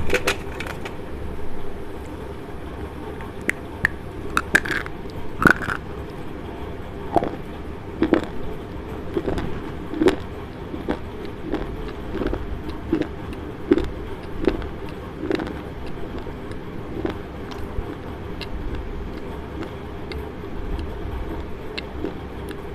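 Slate pencils being bitten and chewed right at a lapel microphone: short, dry crunches at an irregular pace, about one a second through the middle stretch, over a steady low hum.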